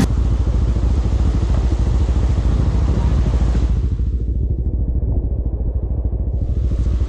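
A vehicle on the move: a steady low engine and road rumble. The higher hiss above it fades out for about two seconds past the middle, then comes back.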